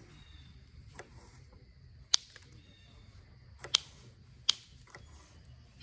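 Flintknapping strikes on Onondaga chert: a handful of sharp, unevenly spaced clicks of stone being struck to remove flakes, the loudest about two seconds in.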